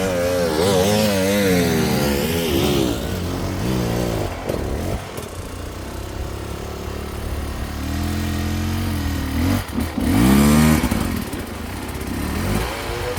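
Enduro dirt bike engines revving hard and dropping back again and again as the riders work up a steep climb. The loudest moment is a sharp rev that rises and falls about ten seconds in.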